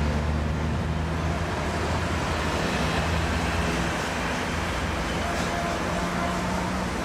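GM G12 diesel locomotive running, a steady low engine drone under a rolling rumble of train wheels on rail.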